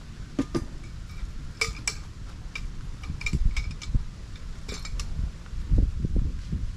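Light metal clinks and taps, like utensils and dishes being handled: a dozen or so sharp clicks, some with a short ring, at irregular moments. A steady low rumble sits underneath.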